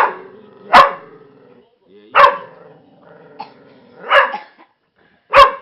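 A dog barking: five loud single barks, spaced about a second or more apart.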